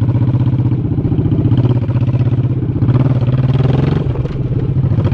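Honda Shadow 1100's V-twin engine running under way, its exhaust pulsing steadily, with a rise in pitch about three seconds in.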